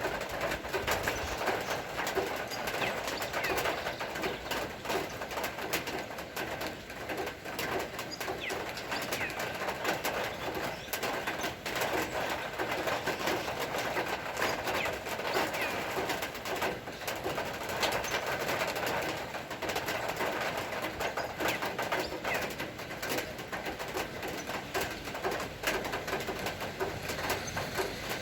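Steady rain falling, with a constant patter of drops.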